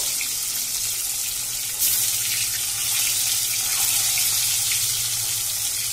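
Boiled eggs sizzling as they fry in hot oil in a steel wok: a steady high hiss that gets louder about two seconds in.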